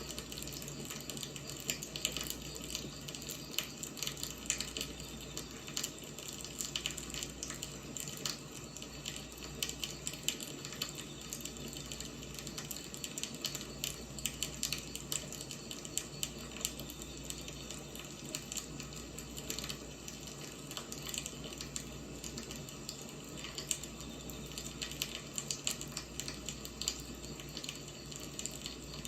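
Wood fire burning, with a steady hiss and constant irregular crackling and popping of the firewood.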